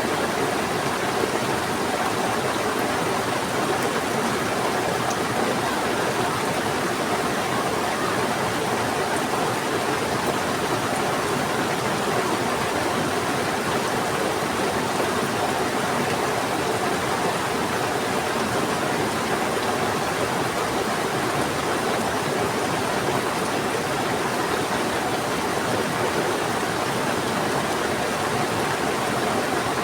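Heavy rain falling together with a fast-flowing river rushing, a steady even wash of water noise.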